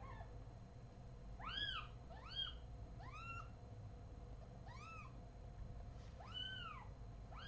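A newborn kitten mewing repeatedly while handled for its exam, about half a dozen short high-pitched cries, each rising then falling in pitch, with a pause in the middle. They are the distress calls of a kitten taken away from its mother.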